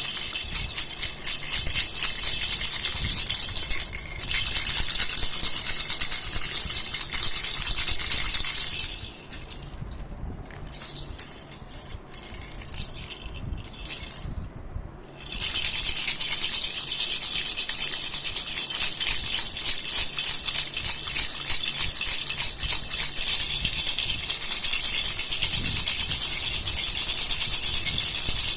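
Baby's rattle (jhunjhuna) shaken continuously, a dense crisp rattling of small beads. It is shaken loudly for the first nine seconds, much more softly and intermittently from about 9 to 15 seconds, then loudly again to the end.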